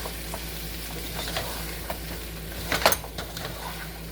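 Vegetables sizzling in a pan while a utensil stirs them, with scattered light clicks against the pan and one louder clink just under three seconds in.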